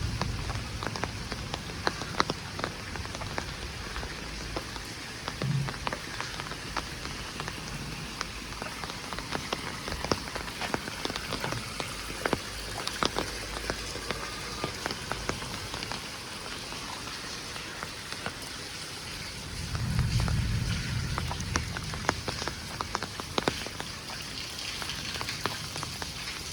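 Heavy rain falling steadily, an even hiss dotted with the sharp taps of individual drops striking close by. A low rumble swells briefly about twenty seconds in.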